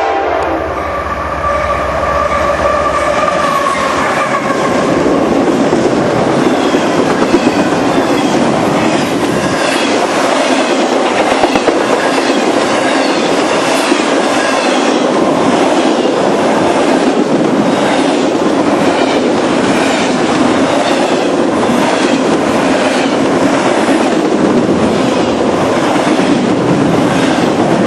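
CSX freight train passing at speed. Its horn trails off over the first few seconds, then the freight cars go by in a steady loud rumble, with wheels clicking in a regular rhythm over the rail joints.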